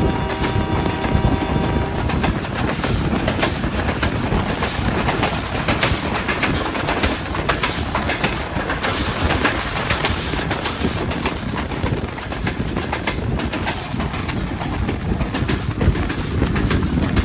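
Hazara Express passenger train running on the track, wheels clattering over rail joints with a steady rumble. A steady hum sounds along with it and stops about two seconds in.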